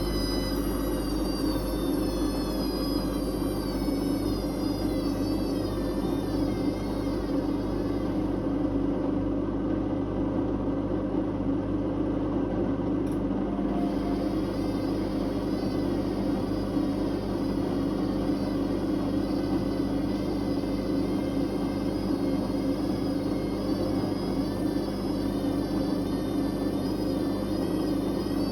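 Whirlpool Indiana 1400 front-loading washing machine on a high-speed spin: a steady drum rumble under a motor whine whose pitch wavers slightly.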